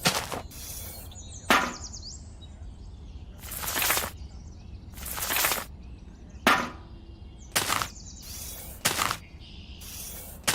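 Sharp knocks at irregular intervals, a second or more apart, with two longer hissing strokes a few seconds in, over a low steady hum.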